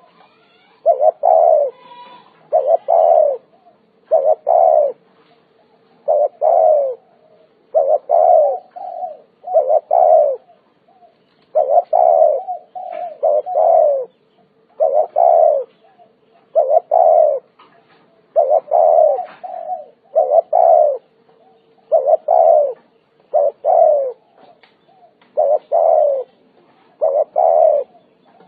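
Spotted dove cooing over and over: phrases of a few short, hoarse coo notes, one roughly every two seconds, with a faint steady hum beneath.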